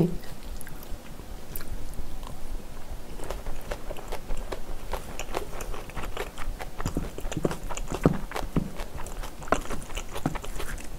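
Close-miked chewing of a mouthful of spicy stir-fried pork and rice, with many small wet clicks and smacks of the mouth.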